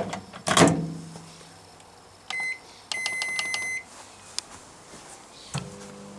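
Microwave oven being shut and started. Two loud knocks as the door closes, then two keypad beeps, a short one and a longer one. About five and a half seconds in the oven starts running with a steady low hum.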